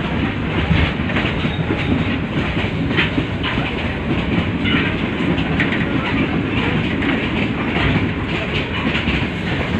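Passenger train running along the line: a steady loud rumble with repeated clacks and knocks from the wheels and carriage.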